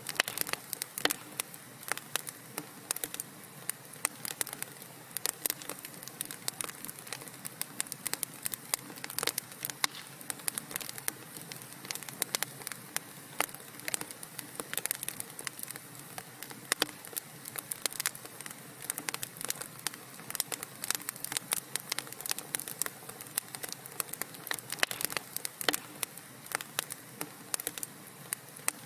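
Wood fire crackling in a fireplace: frequent, irregular sharp pops and snaps over a steady low hiss of burning logs.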